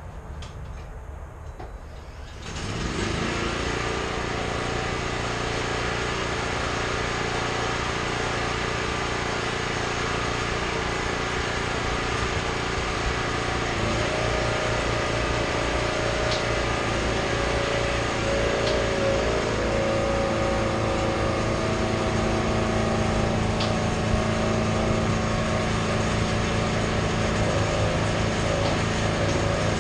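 A small engine or motor starts running about two and a half seconds in and keeps going steadily, with a higher steady tone joining about halfway through.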